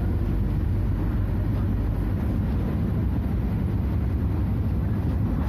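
Scania DC09 five-cylinder diesel engine of a Scania F250HB bus running at a steady speed, a continuous low rumble with no change in engine speed.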